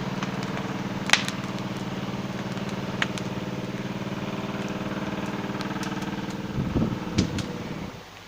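A motor running steadily at an even idle-like hum, with a few sharp clicks over it; the hum starts abruptly and falls away near the end.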